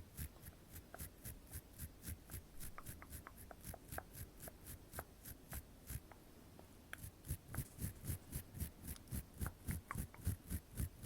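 Close-miked ASMR tapping: quick, even taps or strokes about four or five a second, each with a soft low thud and a crisp high edge, pausing briefly about six seconds in.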